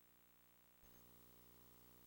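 Near silence: only a faint steady hum, a little louder from just under a second in.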